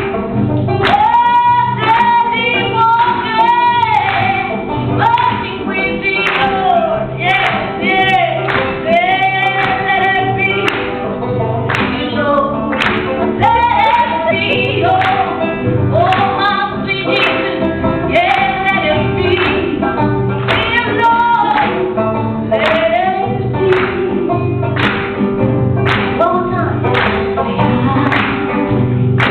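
Singing in a sing-along medley, with an accompaniment keeping a steady, even rhythm.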